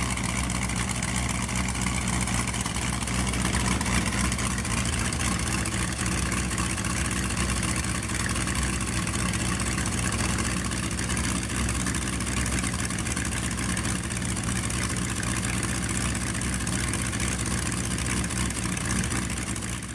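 1932 Ford Sport Coupe hot rod's engine idling steadily through its eight exhaust pipes.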